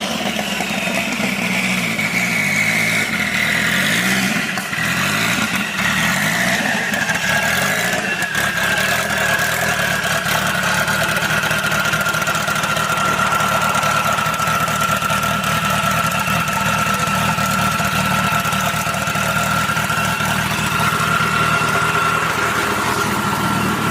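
Car engine running steadily, with a high whine that slides down in pitch over about the first ten seconds and then holds at one pitch.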